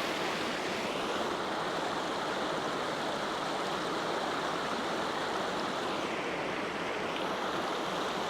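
Waterfall and stream water rushing in a steady, even hiss.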